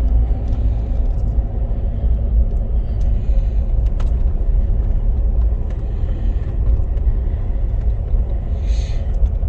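Car driving a lap around an oval race track, heard from inside the cabin: a steady low rumble of engine and tyres, with a single sharp click about four seconds in.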